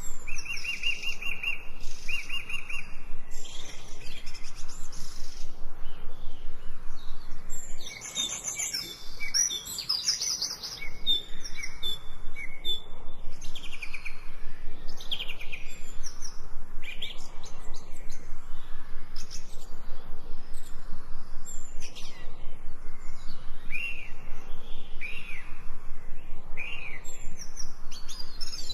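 Songbirds chirping and singing, with many short rising and falling notes and a fast trill in the first few seconds.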